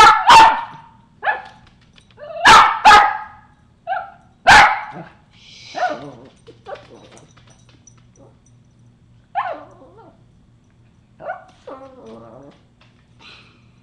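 Pet dog barking for a treat: five loud, sharp barks in the first few seconds, two at the start, two about 2.5 s in and one about 4.5 s in, then a few quieter, scattered yips.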